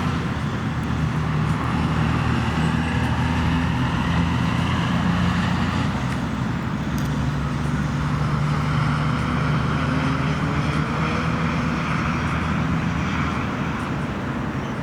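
A road vehicle running with engine and tyre noise, its pitch drifting slowly up and down.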